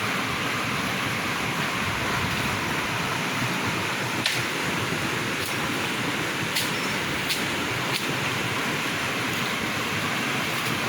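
Steady rush of river water, with a few light clicks over it.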